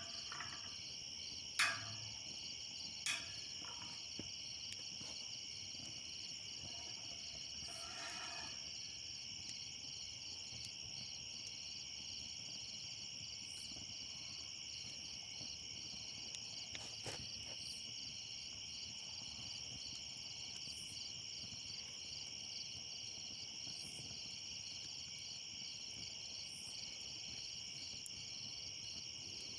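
Steady, pulsing high-pitched chorus of insects. There are two sharp knocks or clicks a couple of seconds in and a few fainter clicks later.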